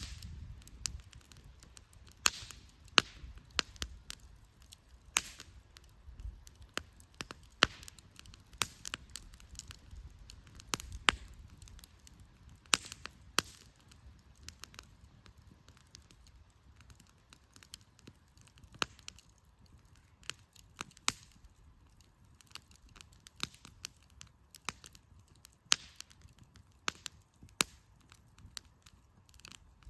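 Wood fire crackling: burning firewood snapping and popping in sharp, irregular cracks, some much louder than the rest, over a faint low rumble.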